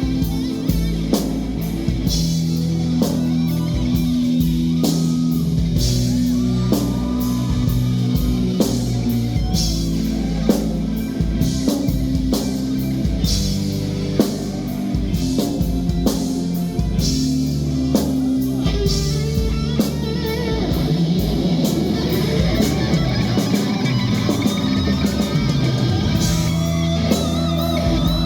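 Live rock band playing: electric guitar with bending, wavering notes over sustained bass and a steady drum kit beat.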